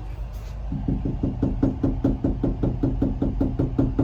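Fist pounding on a house door, a fast, steady run of about five knocks a second that starts about a second in.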